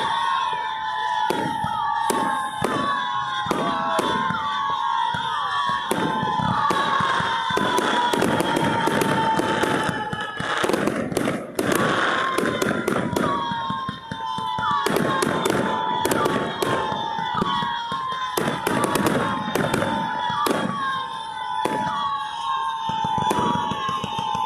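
Fireworks going off: many sharp bangs and crackling bursts in quick succession, denser in places. A steady high whine that falls slowly in pitch runs underneath.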